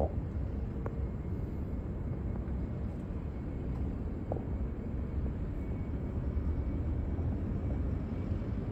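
Steady low rumble of an airplane's engines, with a few faint clicks.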